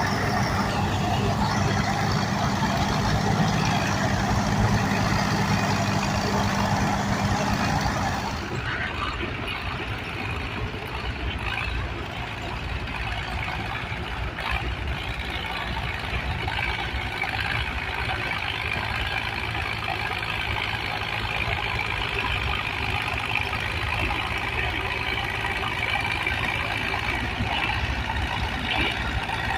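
A steady engine running. About eight seconds in the sound changes abruptly to a quieter, steady mechanical hum.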